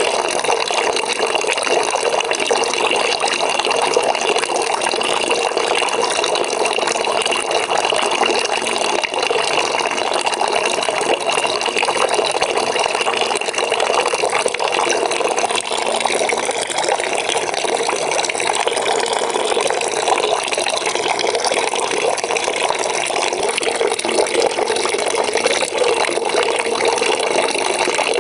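Water pouring from a tap into a bucket, a steady splashing and gurgling fill that runs on evenly. About halfway through, the higher ring of the splash fades a little.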